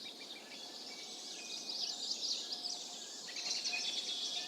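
Small birds chirping in quick, high repeated trills over a faint steady outdoor hiss, starting about a second and a half in and growing busier near the end.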